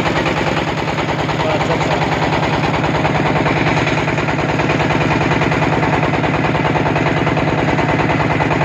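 River boat's engine running steadily with a fast, even chugging beat.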